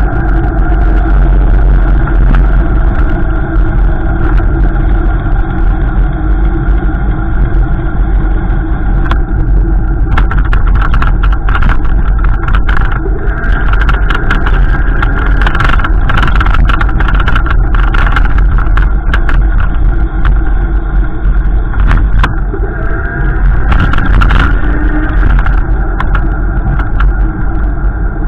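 Car driving, with steady engine and road noise over a heavy low rumble and scattered clicks; the engine pitch shifts briefly near the end.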